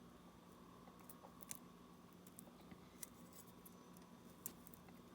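Near silence with faint, short, sharp clicks and ticks spread through, a few sharper ones among them, over a steady low hum.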